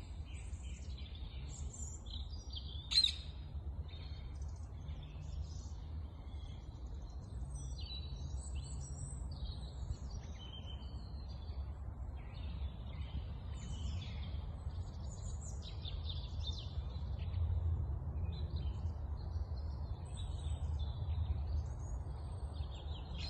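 Several birds chirping and singing, many short calls overlapping, with one sharp call about three seconds in. A steady low rumble runs underneath.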